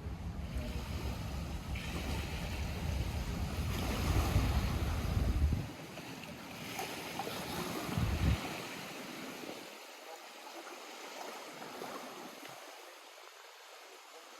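Small lake waves lapping at the shore. Wind buffets the microphone with a low rumble that stops suddenly about five and a half seconds in, gusts once more briefly about eight seconds in, and leaves the water quieter after that.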